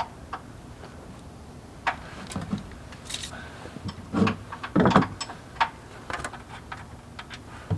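Scattered clicks and knocks of tools and parts being handled, with two louder thuds about four and five seconds in.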